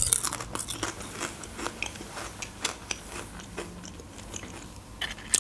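Potato chip being chewed: a sharp crunch right at the start, then many small, irregular crunches.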